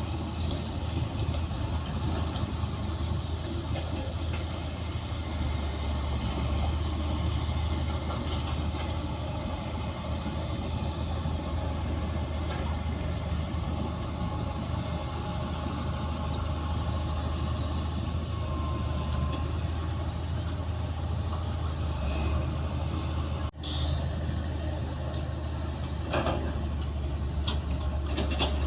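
Komatsu D60P bulldozer's diesel engine running steadily under work, with a brief break about two-thirds through. Metallic clanks and squeals follow near the end.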